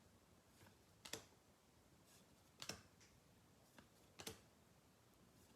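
Baseball cards being flipped through one at a time, three faint snaps about every second and a half.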